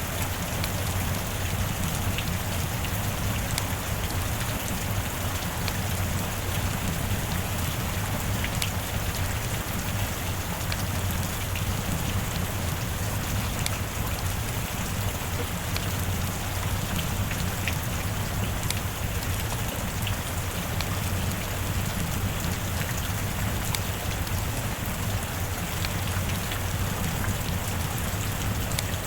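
Steady rain falling: a continuous even hiss with scattered sharp ticks of individual drops.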